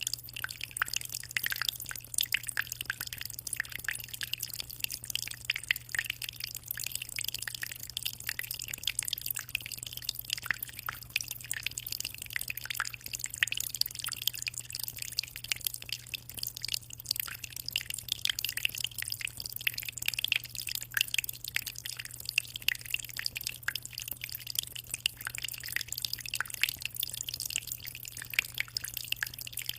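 Aquarium water trickling and dripping in a dense, unbroken patter, with a low steady hum underneath.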